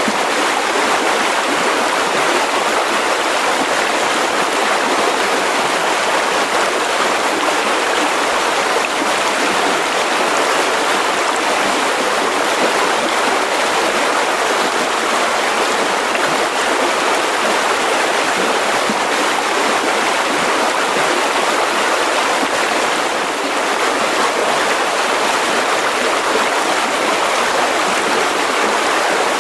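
Mountain river rushing steadily over rocks: a constant loud wash of flowing water.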